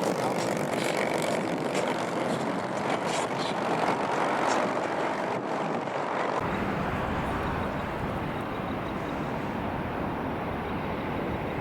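Jet airliner engines on landing approach, a steady loud jet noise with a slowly falling tone as the aircraft passes. About six seconds in the sound changes abruptly, turning duller with a deeper low rumble.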